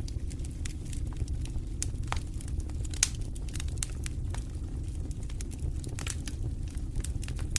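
Wood fire crackling in a fireplace: irregular sharp pops and snaps over a steady low rumble, with the loudest pop about three seconds in.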